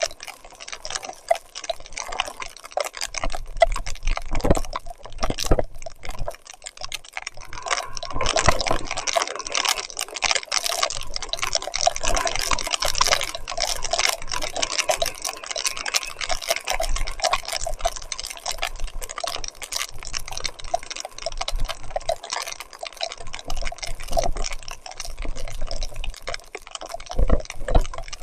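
Wet splashing and dripping as a mountain bike is ridden through mud and water in heavy rain: a dense, irregular patter of small splashes and drips, busiest in the middle stretch.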